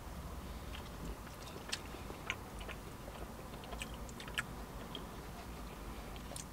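Close-miked chewing of soft, fluffy Texas toast: faint, scattered wet mouth clicks over a low steady hum.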